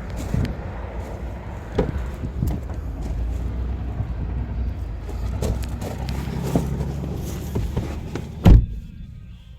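Wind rumbling on the microphone with small handling knocks, then a car door shutting with one heavy thud near the end, after which the wind noise drops away.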